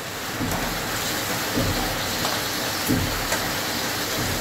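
Chicken pieces sizzling steadily in oil in a karahi, with a few dull knocks from handling in the pan.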